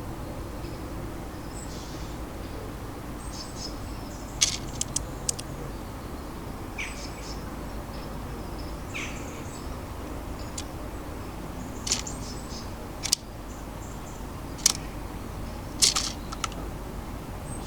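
Faint high chirps of small garden birds over a steady low background rumble, with scattered sharp clicks and taps, the loudest a quick cluster about four seconds in and a few more near the end.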